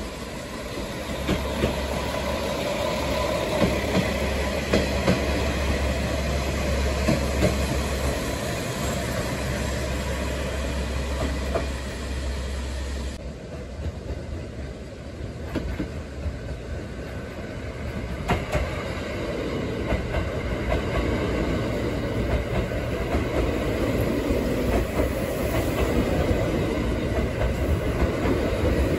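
A red KiHa 40/47 diesel railcar running along the track with a low diesel rumble and wheel knocks. About 13 seconds in, the sound changes to a 285 series Sunrise Seto/Izumo sleeper train approaching and passing close by, its wheels clacking over the rail joints and growing louder toward the end.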